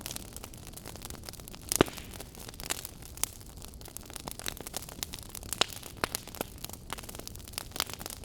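Wood logs burning in a fireplace, crackling with irregular sharp pops over a soft, steady hiss; one louder pop comes about two seconds in.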